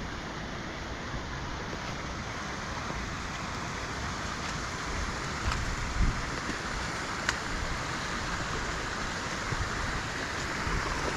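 Steady rushing of a rain-swollen burn running fast and full, mixed with rain and low wind rumble on the microphone. A few brief knocks and clicks stand out midway.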